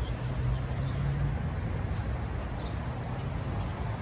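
A vehicle engine running steadily, a low hum, with a few faint high chirps.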